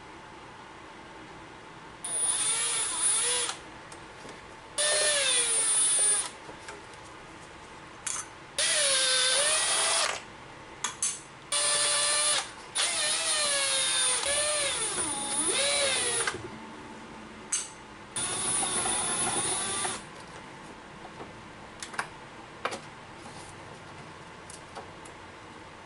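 Handheld power tool, such as a cordless drill or electric ratchet, run in about six short trigger pulls. Its motor whine rises and falls in pitch within each pull.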